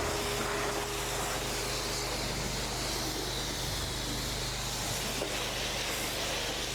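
Pressure washer rinsing a tractor: a continuous hiss of water spray over a steady machine hum.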